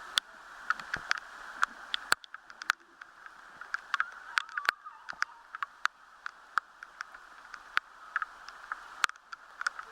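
Heavy rain falling, with many sharp, irregular drop hits close by over a steady hiss.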